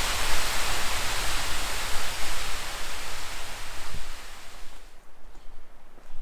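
Steady rush of flowing water that fades away about four to five seconds in.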